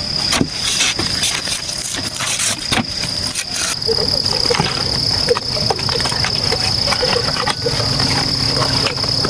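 Insects droning in one steady high-pitched tone, over many short, sharp clicks and crackles.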